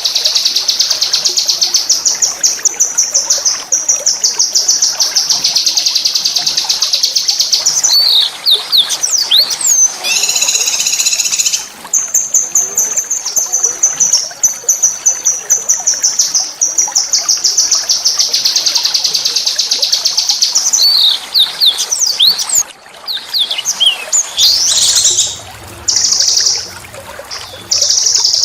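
A small songbird singing long, rapid, high trilled rolls (ngerol) broken by quick sweeping notes. About ten seconds in comes a harsher, buzzier phrase.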